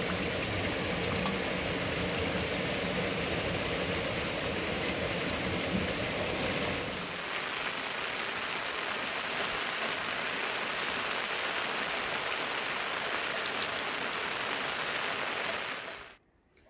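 Steady rain falling, an even hiss. About seven seconds in it loses some of its low rumble, and it cuts off suddenly near the end.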